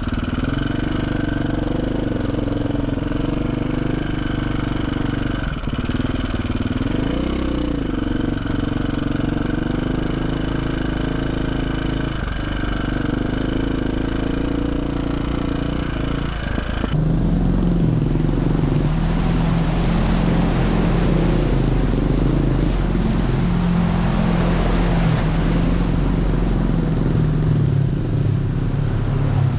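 KTM 450 SX-F single-cylinder four-stroke dirt bike engine running under a rider on a trail, its revs rising and falling. About two-thirds of the way through the sound changes abruptly to a lower, steadier engine note with more rushing noise.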